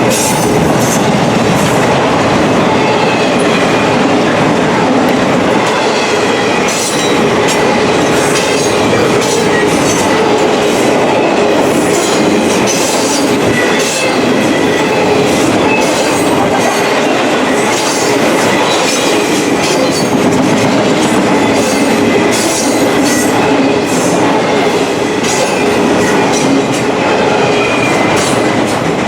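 Intermodal container freight train rolling past at steady speed: a continuous loud rumble of steel wheels on rail, with frequent clacks of wheels over rail joints and a faint high wheel squeal here and there.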